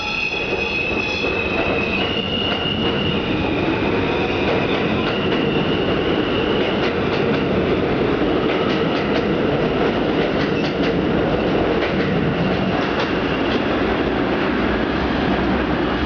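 Kawasaki/Alstom R-160 subway train running on track: a steady, loud rumble of wheels on rail. For the first few seconds high whining tones ride on top, and through the middle there is a run of quick clicks from the wheels.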